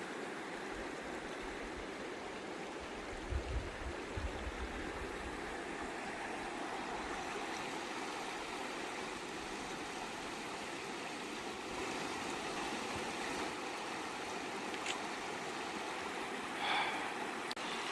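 Steady rush of the Hoh River's flowing water, with a few low thumps about three to four seconds in.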